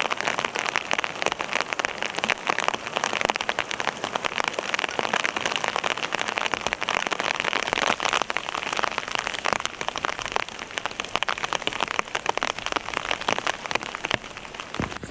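Steady heavy rain falling on tent fabric, heard from inside the tent as a dense stream of separate drop hits.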